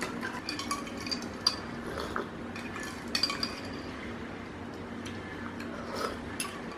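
Cutlery clinking and scraping against dishes and a glass as food is mixed, with a few sharper clinks standing out.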